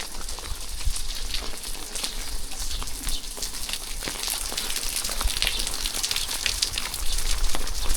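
Steady rain falling, a continuous hiss of rain with many separate drops ticking and pattering close by.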